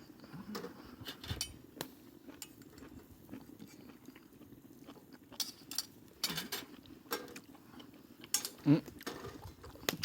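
Someone eating: quiet chewing with scattered light clicks of utensils against a bowl, and a couple of short murmurs in the second half.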